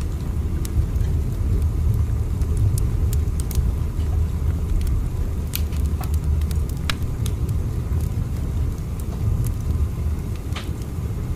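Steady low rumble of a train running, with scattered faint clicks.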